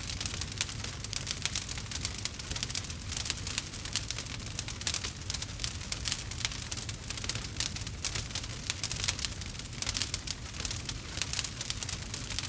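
Campfire crackling, with dense, irregular pops over a steady low rumble.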